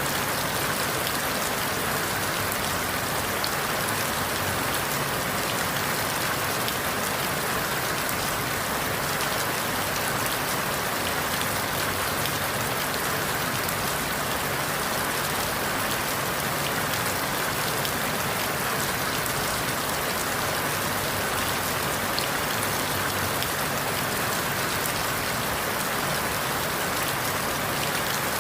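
Steady rain falling on forest leaves, an even hiss of many small drops with no break or change.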